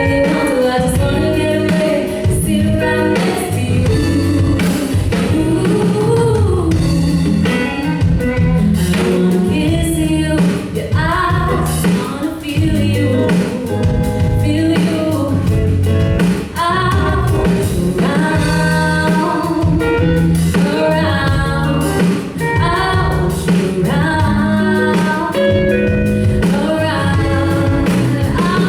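Live band playing a song: a woman singing lead over guitar, bass guitar and drum kit.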